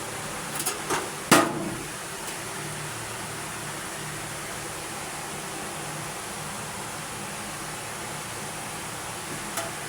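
A few short sharp knocks about a second in, the last one the loudest, and one fainter click near the end, over a steady hiss.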